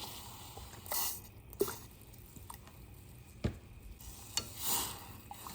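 Macadamia nut milk being added to a pot of black tea simmering on the stove: faint sizzling and stirring with a few light knocks.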